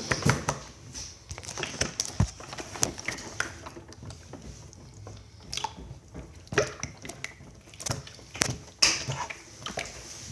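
Hands squishing and stretching slime, making irregular clicks and crackles.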